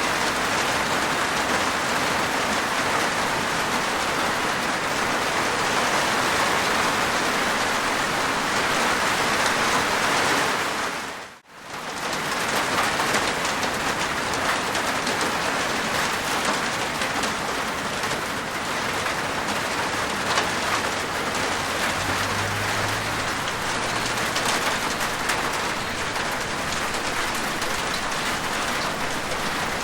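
Steady rain falling on a rooftop, a dense patter of raindrops. The sound dips out briefly about a third of the way in, then comes back.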